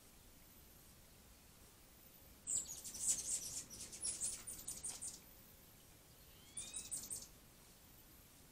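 A small songbird singing two phrases of rapid, high-pitched trilled notes: a longer one a few seconds in, then a shorter one with a couple of gliding notes.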